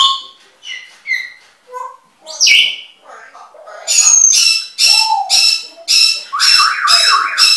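Caged pet birds chattering: scattered whistles and squawks, then from about four seconds in a quick run of sharp, repeated calls, a little over two a second.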